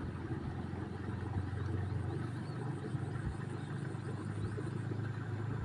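A steady low engine hum, with faint short high chirps over it.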